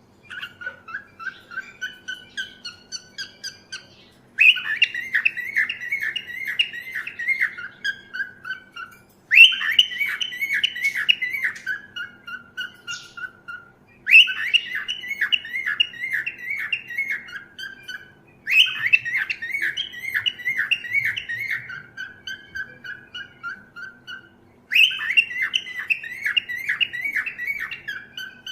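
Cockatiel chirping in repeated bouts about every five seconds, each a quick run of loud chirps that tails off into softer, lower notes, with quieter chirping between bouts.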